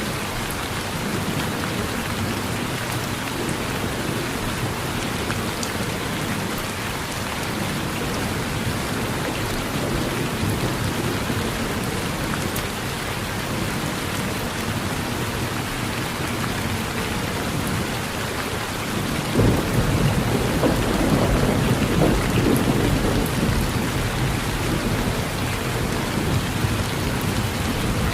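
Steady rain falling on a porch, with a low rumble of thunder that swells in about two-thirds of the way through and rolls on for several seconds.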